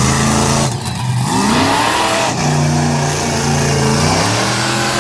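Monster truck engine revving hard, its pitch climbing and falling between held, steady revs.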